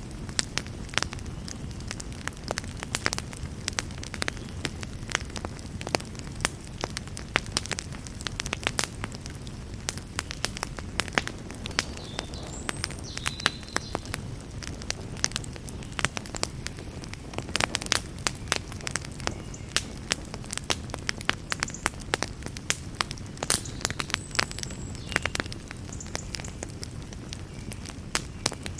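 Campfire burning: a steady low rush of flames with frequent sharp crackles and pops, several a second.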